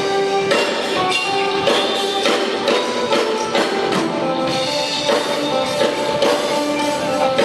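Live band music with plucked guitar lines over steady percussion, including tambourine.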